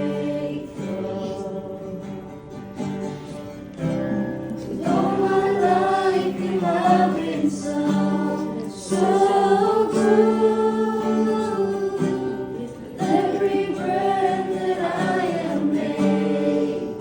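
Voices singing a Christian worship song together in phrases of held notes, with instrumental accompaniment.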